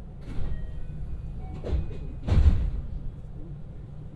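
JR West 223-series electric train standing at a station platform, a steady low hum under three short noisy bursts. The last burst, a little over two seconds in, is the loudest.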